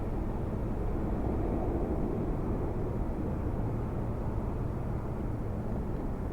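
Jet engines of a departing Boeing 767-300 on takeoff and climb-out, heard as a steady low rumble.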